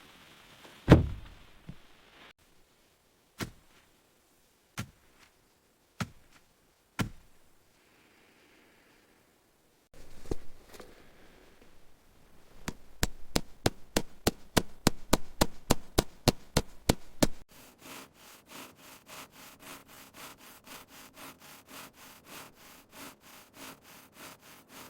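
Hand tools working wood. First come single knocks and thuds, the first the loudest. After a break there is a fast run of sharp strikes about five a second, then a softer, steady back-and-forth stroking about four times a second.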